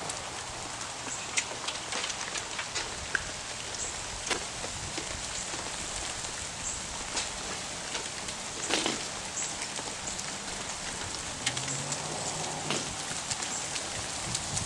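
Ice falling from ice-coated trees: a steady patter of small clicks and ticks, with one heavier crash about nine seconds in.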